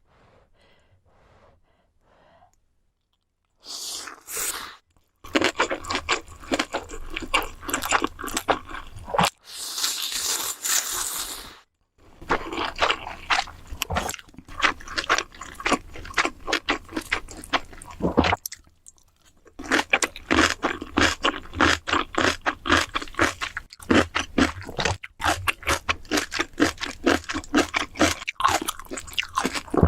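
Close-miked eating: rapid, wet chewing and crunching, starting a few seconds in and running in dense clusters, with a steady hiss lasting about two seconds around a third of the way through.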